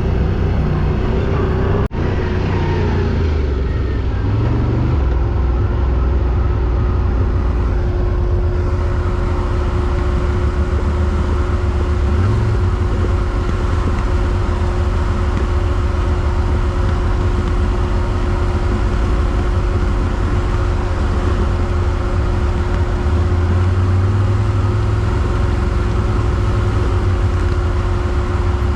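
ATV engine running at a steady speed, a low rumble with a steady whine over it. The sound cuts out for an instant about two seconds in.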